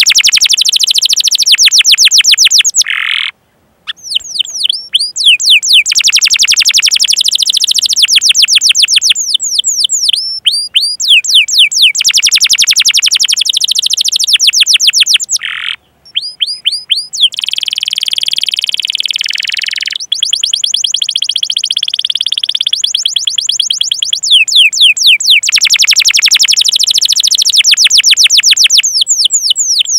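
Domestic canary singing its 'cuit cuit' calls: long fast trills of repeated falling whistled notes, broken by short pauses, with a steadier buzzing roll about two-thirds of the way through.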